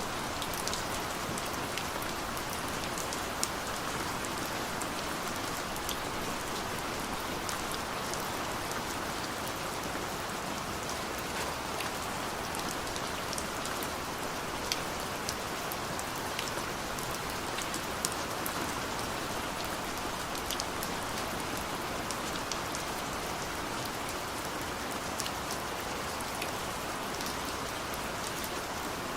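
Steady rain falling, an even hiss of rain with scattered sharper drips of single drops landing on surfaces.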